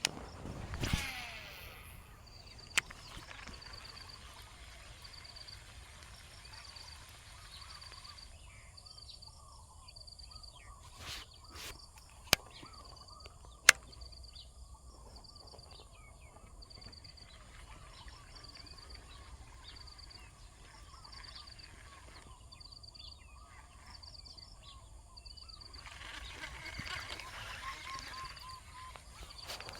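Quiet rural outdoor ambience: a short high-pitched bird or insect call repeats a little more than once a second over fainter chirping. A few sharp clicks come through, one early and two near the middle, and a louder rustling noise swells near the end.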